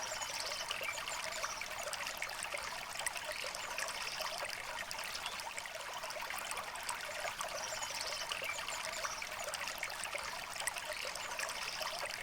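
Clear river flowing steadily, a bright trickling water sound with little low rumble.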